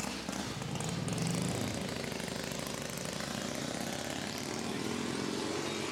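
Triumph Bonneville T120 motorcycle's parallel-twin engine running steadily, with a constant rushing hiss over it.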